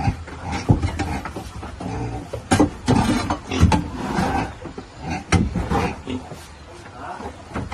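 Animal sounds: a run of irregular short calls mixed with sharp knocks.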